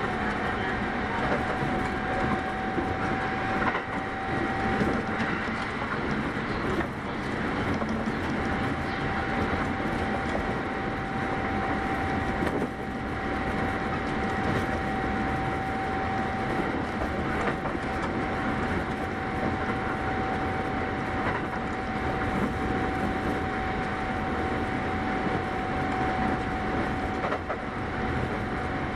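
Kintetsu 8810 series electric train running steadily at speed, heard from inside the passenger car: an even rumble of wheels on rails with one steady whine above it.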